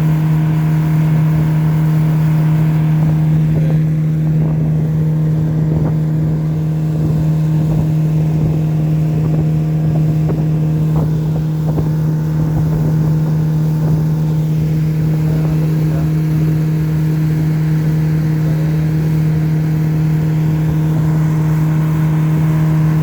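Hidea 60 hp outboard motor running at a steady, unchanging speed, with an even engine pitch.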